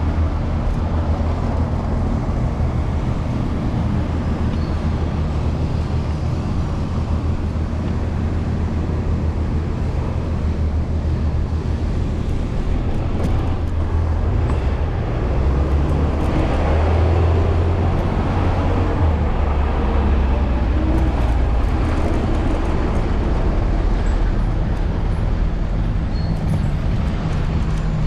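City street traffic heard from a moving electric scooter: vehicle engines running with a steady low rumble, growing a little louder about halfway through.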